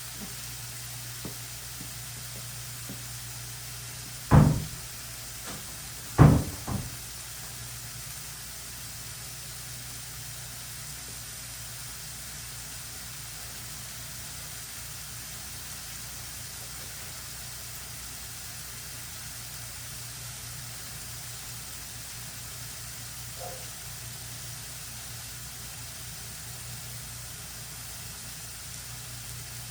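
Two heavy thumps, about four and six seconds in, the second followed by a lighter knock, over a steady low hum.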